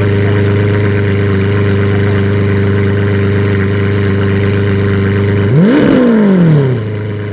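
Lamborghini Veneno's V12 engine idling steadily, then given one quick blip of the throttle about five and a half seconds in: the pitch shoots up and falls back to idle within about a second.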